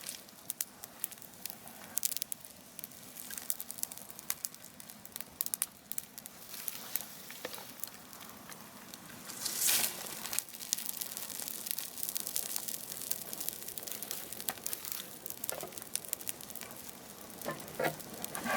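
Wood bonfire crackling and hissing, with sharp pops throughout and a louder rushing burst about ten seconds in.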